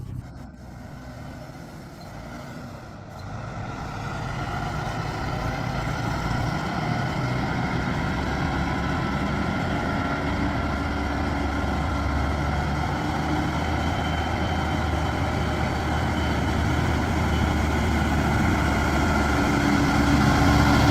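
Heavy-haul Hyundai Xcient semi truck's diesel engine labouring uphill under a heavy lowboy load, a steady low hum that swells about three seconds in and keeps growing slowly louder as the truck draws nearer.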